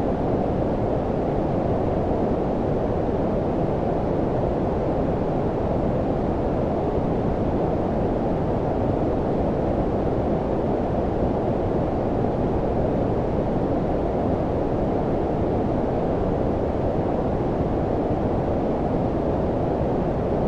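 Steady low-pitched noise with no events: a deep, muffled hiss filtered to cut the highs, like brown noise. Unchanging and continuous.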